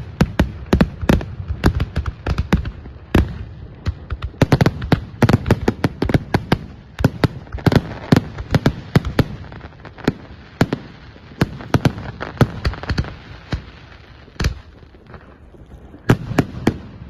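Fireworks going off: a dense, irregular run of sharp bangs, several a second, thinning out near the end before a last few close together.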